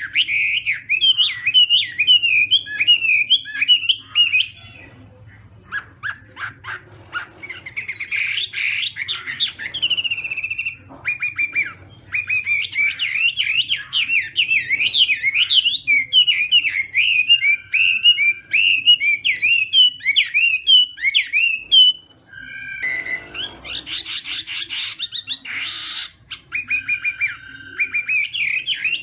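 Chinese hwamei (họa mi) singing a fast, varied run of whistled phrases, broken by a few short pauses.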